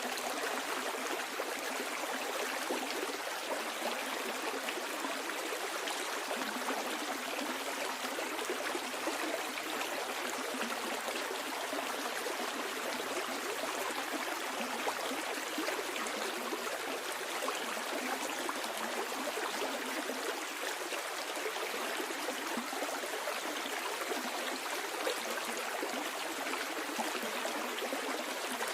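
A stream flowing steadily downstream, the water rushing and trickling in a constant noise with no breaks.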